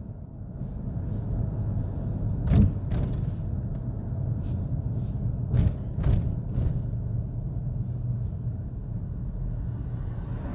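A vehicle engine running with a steady low rumble, with a few sharp knocks and clicks about two and a half, three, and six seconds in.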